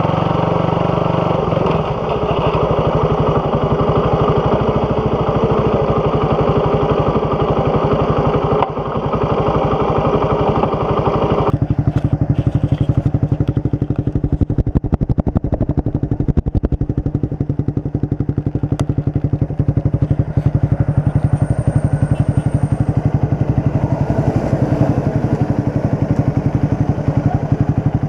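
Suzuki Raider 150 motorcycle running through an open aftermarket big-elbow exhaust with no catalytic converter. Partway through, the louder, fuller sound drops away to a steadier, lower beat of the engine.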